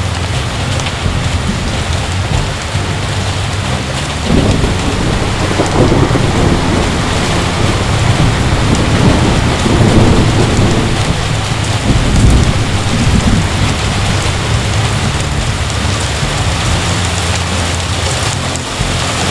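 Heavy rain falling steadily, with a long rumble of thunder that builds from about four seconds in, peaks twice and dies away after about thirteen seconds.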